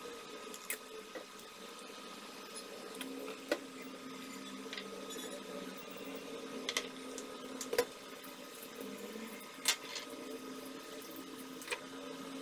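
Induction cooktop heating a saucepan of tea, with a steady hum that gains a lower tone about three seconds in. A handful of sharp clicks and knocks come from jar lids and the pan being handled.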